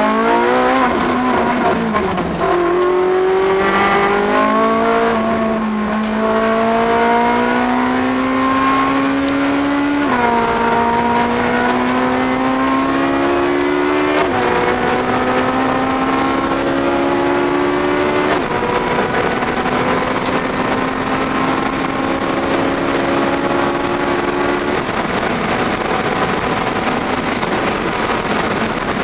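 Car engine accelerating hard through the gears, heard from inside the car. Its pitch climbs and drops sharply at each upshift, about every four seconds, then holds steady. Near the end the engine note fades under road and wind noise.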